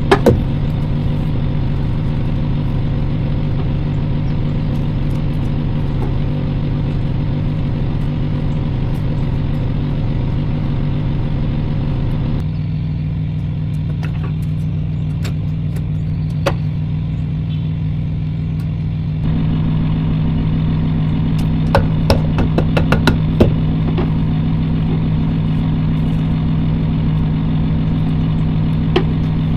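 Semi truck's diesel engine idling steadily, its hum shifting abruptly twice, with a few sharp clicks or knocks, most of them about two thirds of the way through.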